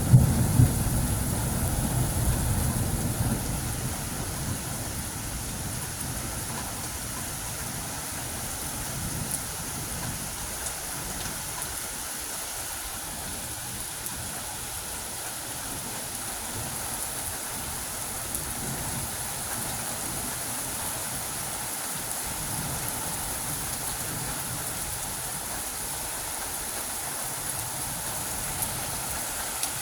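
Steady rain falling, with the last of a thunder rumble fading away over the first few seconds.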